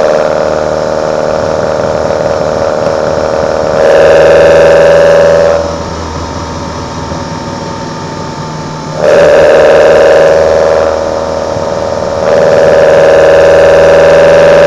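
Kadett GS 16-valve four-cylinder engine's intake roar through side-draft Solex C40 ADDHE carburetors under throttle, its pitch creeping slowly upward. The throttle closes about six seconds in and the sound drops sharply for about three seconds, then comes back on, dips again briefly around eleven seconds, and rises to full intake roar near the end.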